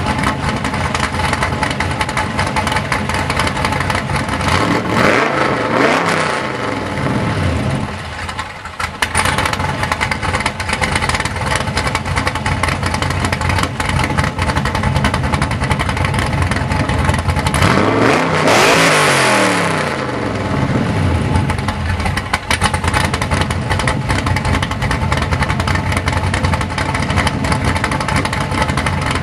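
2004 Pontiac GTO's 5.7-litre LS1 V8, fitted with an aftermarket cam, long-tube headers and a MagnaFlow 3-inch cat-back exhaust, idling and revved twice. The first rev comes about five seconds in and the second about eighteen seconds in; each rises quickly and drops back to idle.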